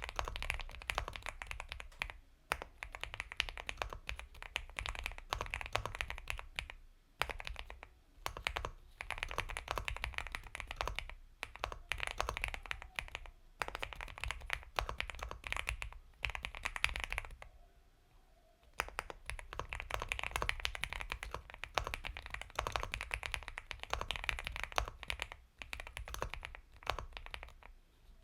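Steady typing on an Epomaker x Feker Galaxy 80 mechanical keyboard with Gateron Milky Yellow Pro switches: soft, creamy keystrokes in quick runs, broken by short pauses, the longest about eighteen seconds in.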